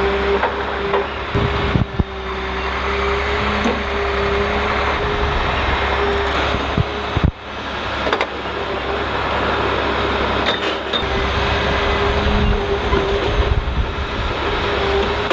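A heavy logging machine's engine running steadily with a constant humming tone, broken by a few short knocks and clanks.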